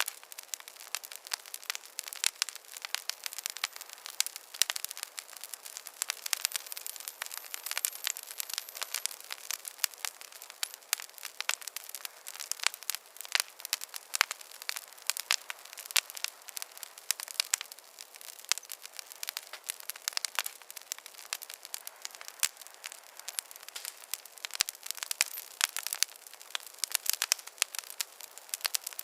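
Wood fire crackling in a fireplace: a dense, irregular stream of sharp pops and snaps over a steady hiss, with a faint high whistle for a few seconds near the start.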